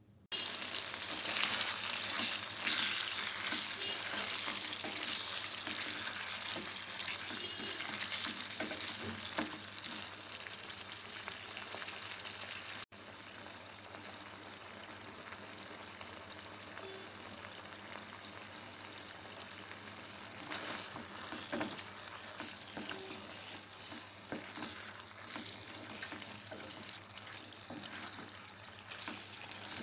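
Potato curry gravy sizzling and bubbling in a nonstick pan as it cooks down. The sizzle starts suddenly and drops to a softer level at an abrupt cut about halfway through, with a few sharp knocks.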